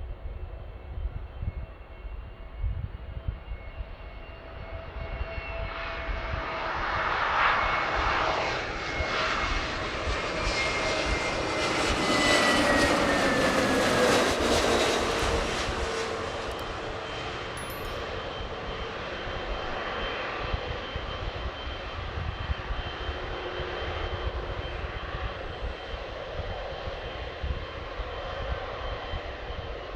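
Jet airliner landing, passing close by: its engine noise swells over several seconds, is loudest about halfway with a whine that falls in pitch as it goes by, then settles to a steadier, quieter rumble.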